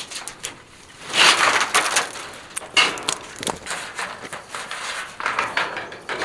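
Irregular crunching and rustling with scattered sharp clicks, rising and falling in several swells, as things are picked up and handled.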